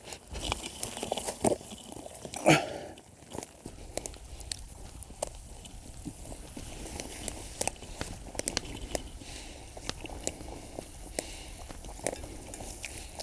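Campfire crackling, with scattered sharp pops and snaps and one louder brief sound about two and a half seconds in.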